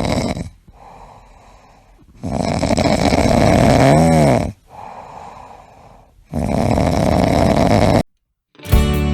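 Loud snoring from a pet: three long snores with quieter breaths between them. It cuts off just before the end, and guitar music starts.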